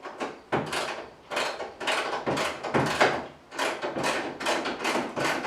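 Ratchet wrench working loose the door hinge bolts on a GMC squarebody pickup: a steady run of short rasping clicks as the ratchet is swung back and forth, about two to three strokes a second.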